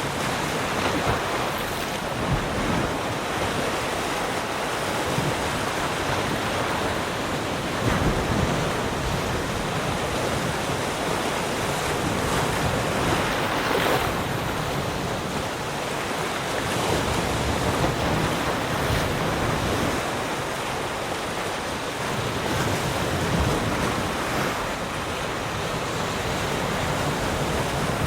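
Sea surf: waves washing ashore without a break, swelling now and then as a wave breaks, with wind buffeting the microphone.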